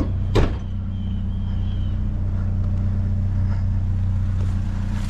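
Vehicle engine running steadily with a low hum, and a single sharp click about half a second in.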